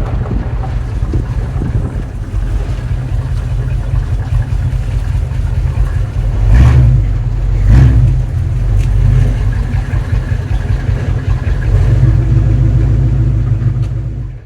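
A vehicle running along with a heavy, steady rumble of wind on the microphone. It swells louder twice, about six and a half and eight seconds in.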